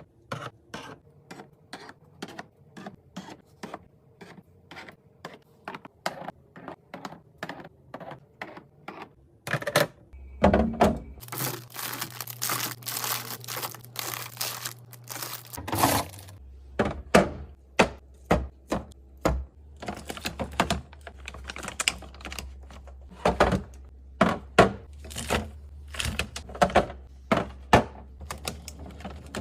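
Containers and packages being handled and set down while a fridge is restocked: a run of light clicks and knocks, with a stretch of rustling packaging about a third of the way in.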